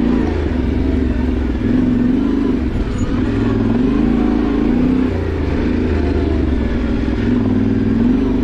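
Yamaha Ténéré 700's parallel-twin engine running under riding, its revs rising and falling several times with the throttle.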